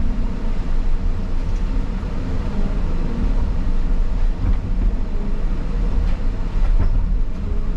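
Caterpillar 323 excavator's diesel engine running steadily with a low, even rumble and no digging impacts.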